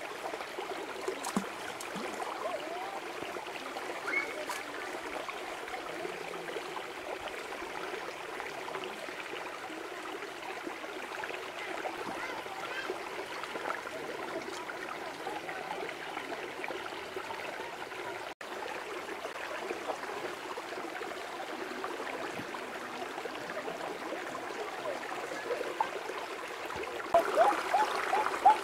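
A stream running steadily, with water gurgling over rocks; the water grows louder and splashier near the end.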